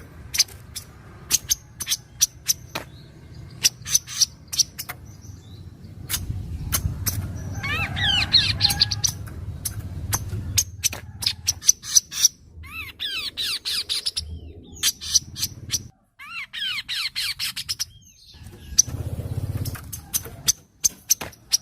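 Kaso-kaso bird singing: a string of sharp chip notes, broken three times by bursts of fast, falling trilled notes, over a low rumble.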